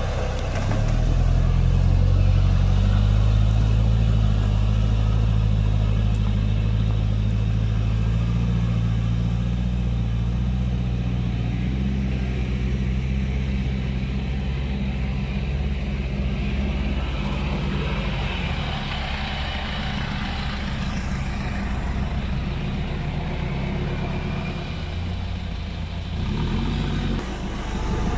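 An off-road 4x4's engine running at low, fairly steady revs, a deep continuous engine note.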